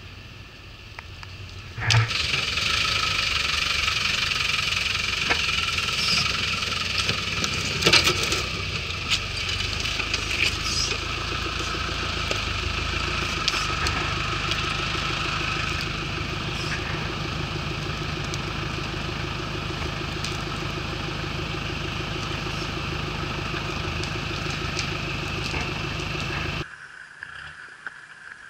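Land Rover 4x4's engine running steadily at low revs as it crawls along a muddy, rutted trail, with a couple of sharp knocks about two and eight seconds in. The sound cuts off abruptly near the end.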